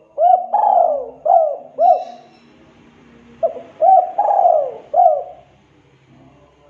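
Spotted dove (tekukur) cooing: two phrases of four or five short, arched coos, with a pause of about a second and a half between them.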